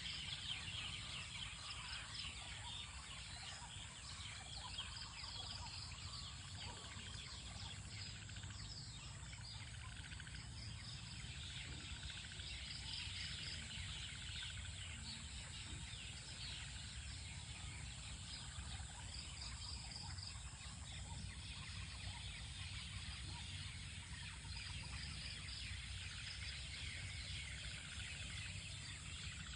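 Many birds chirping and calling over one another in a continuous chorus, over a steady high hiss and a low rumble.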